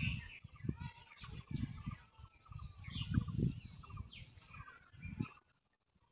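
Birds calling against low, irregular rumbling noise; the sound drops out suddenly about five seconds in.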